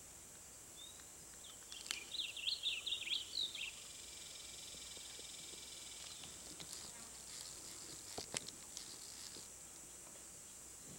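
A small bird sings a quick run of bright, high chirping notes for about two seconds, starting near the two-second mark, over a steady high-pitched insect drone. A few faint clicks follow later.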